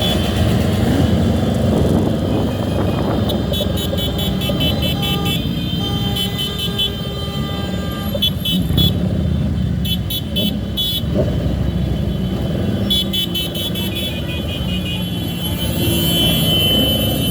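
Motorcycle and car traffic of a large motorcade running steadily, with horns tooting on and off several times.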